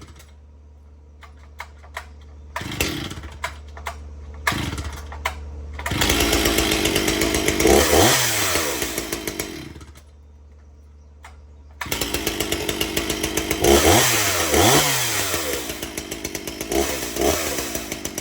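Two-stroke chainsaw engine: a few short pops for several seconds, then it fires and runs with blips of the throttle for about four seconds before cutting out. About two seconds later it runs again and is revved up and down several times.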